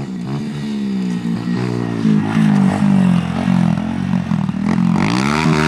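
Pit bike engine on a flat-track lap, its revs rising and falling over and over as the rider works the throttle, then climbing steadily about five seconds in as it accelerates.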